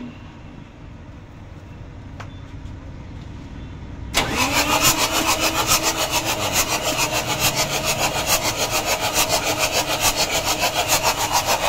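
Howo A7 380 truck's diesel engine cranking with a low, slowly rising rumble, then catching suddenly about four seconds in and running with a rapid, even clatter. The truck is being troubleshot for hard starting and knocking; once running, the engine and its injector nozzles are called steady.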